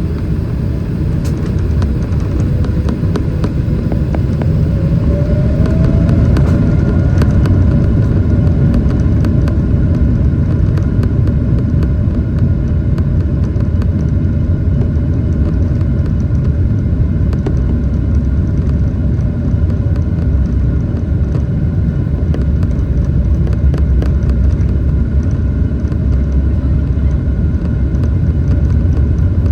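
Boeing 777-300ER's GE90 jet engines at high thrust: a loud, steady rumble that builds over the first several seconds, with a faint tone gliding upward a few seconds in and a few light rattling clicks early on.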